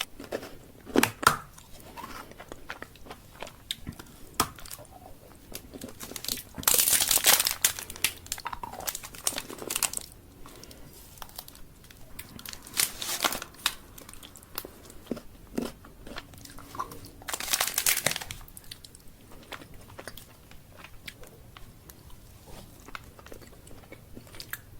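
Chocolate candy being eaten close to the mic: wrapper crinkling and crunching bites in several loud stretches, with quieter chewing and small clicks in between.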